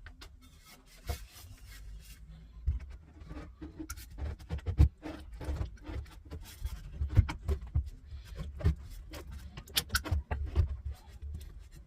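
Irregular knocks, clicks and rubbing from parts and tools being handled, with several sharper knocks through the middle over a low rumble.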